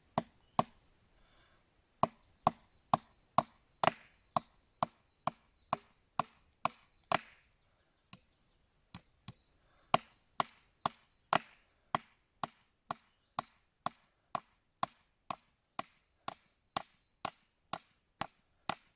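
A hammer striking into the oak log bird box, sharp evenly spaced blows about two a second. There is a short break near the middle with a few light taps, then the steady blows resume.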